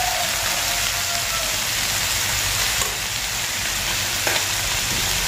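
Green beans and chicken skin sizzling steadily as they stir-fry in a hot wok, with a couple of faint clicks partway through.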